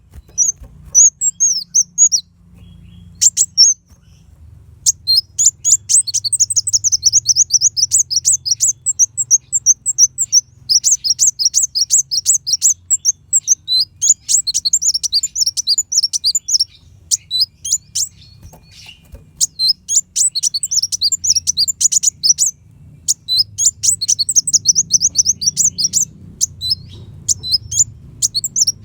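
Kolibri wulung sunbird singing: fast, high, twittering phrases of rapid chirps, each run lasting a second to a few seconds with short pauses between.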